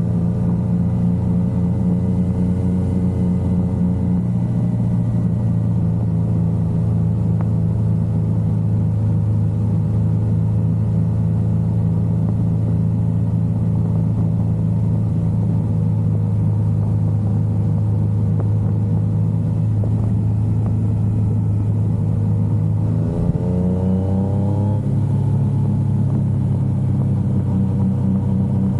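Yamaha XSR900 motorcycle's inline-three engine running on the move, holding a steady pitch after a slight drop about four seconds in. Near the end it accelerates, its pitch climbing, then dips briefly at a gear change.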